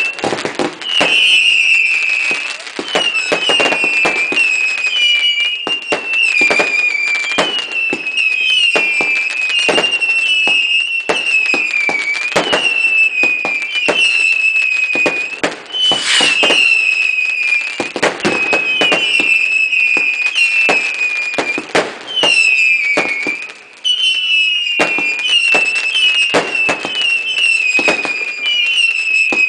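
Whistling fireworks going off in a continuous barrage: overlapping shrill whistles, each falling slightly in pitch, about one a second, mixed with sharp bangs and crackle.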